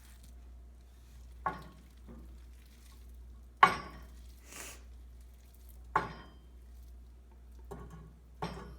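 A spoon knocking and scraping against a mixing bowl as a thick, creamy chicken mixture is scooped out into a dish, with four or five separate clinks a second or two apart and soft wet scraping between them.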